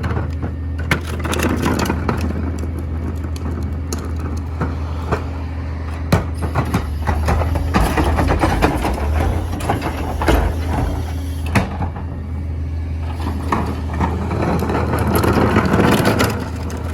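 Mini garbage truck running steadily, with many sharp clanks, knocks and cracks as its packer compacts trash, growing louder and busier near the end.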